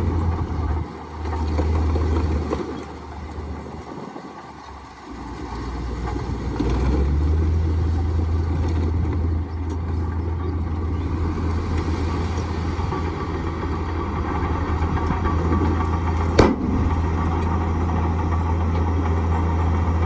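Komatsu D58E bulldozer's diesel engine running, easing off and going quieter for a few seconds, then picking back up to a steady working drone from about six seconds in. A single sharp knock sounds near the end.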